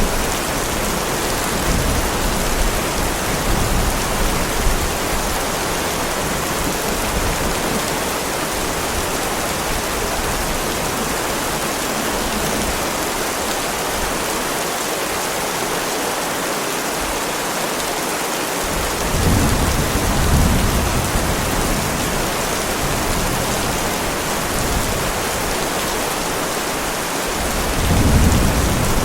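Heavy rain falling steadily in a dense hiss, with low rolling thunder rumbling in twice: once about two-thirds of the way through and again near the end.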